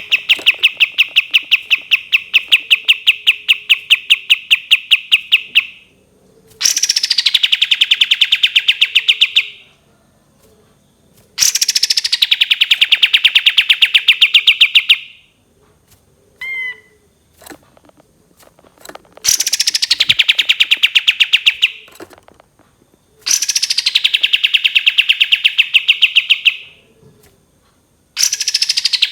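Kapas tembak songbird giving its long trilled song, the 'tembakan panjang': six bouts of fast, evenly spaced notes, about six a second, each lasting three to six seconds. Each bout opens with a high note sweeping down, then holds at one steady pitch. A few short chirps fall in the gap about halfway through.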